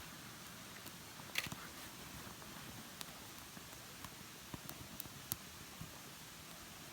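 Small wood campfire crackling: scattered sharp pops, the loudest about one and a half seconds in and near the five-second mark, over a faint steady hiss.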